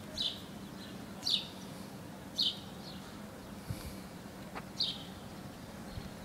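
A small bird chirping outdoors: short, high chirps that drop in pitch, about one every second, some fainter than others, over a faint steady background.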